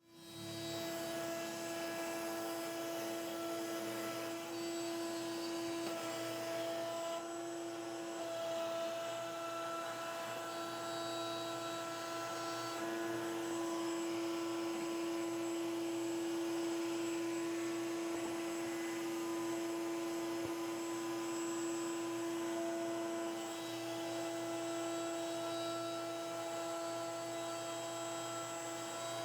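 Electric router mounted in a router table, running at high speed with a steady high whine; its tone shifts slightly a few times as it works.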